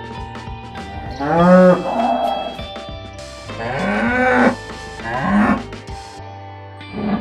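An animal calling three times, each call rising and then falling in pitch, over soft background music.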